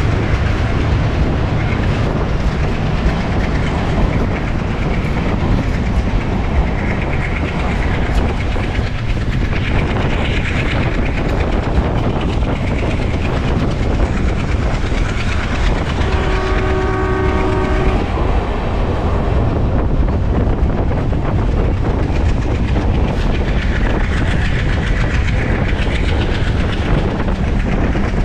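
Train running past close by: a steady heavy rumble with wheels clattering over the rail joints. A little over halfway through, a train horn sounds one steady chord for about two seconds.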